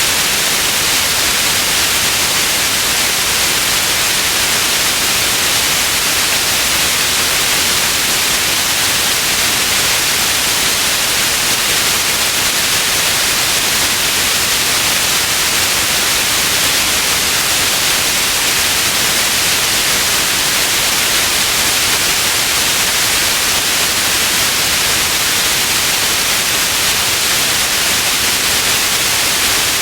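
Steady synthetic white noise: an even, unbroken hiss, brightest in the high frequencies.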